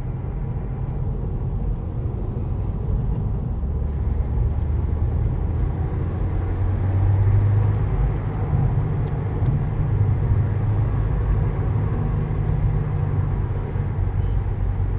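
2015 Subaru WRX's turbocharged flat-four engine and road rumble heard while driving, with the engine note swelling twice around the middle. There is no clunk or squeak from the front strut mount: the steering noise is fixed.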